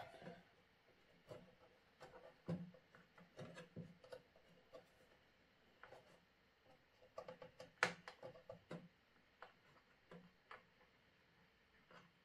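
Faint, irregular clicks and light scraping of a hand tool turning a screw inside a 3D printer, with one sharper click about eight seconds in.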